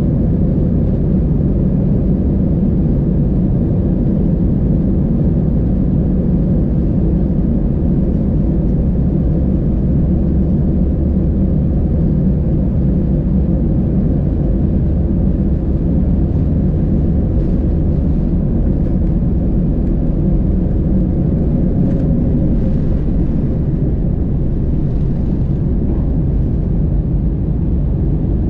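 Steady low cabin rumble inside an Airbus A320-216 airliner: engine and air noise heard from a window seat, even throughout.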